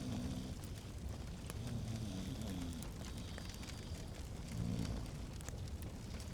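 Fireplace fire crackling: a steady low rumble with scattered sharp pops and snaps.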